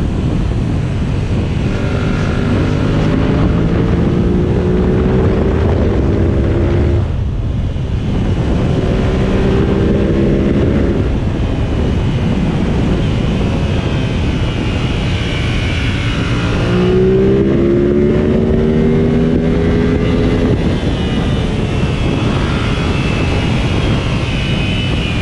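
Yamaha MT-07 parallel-twin engine accelerating hard, its revs climbing in long pulls that break off at gear changes about seven and seventeen seconds in, over steady wind noise.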